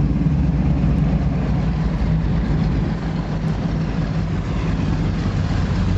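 Go-fast powerboat engines running steadily, a low drone with a rushing noise over it that dips slightly about halfway through.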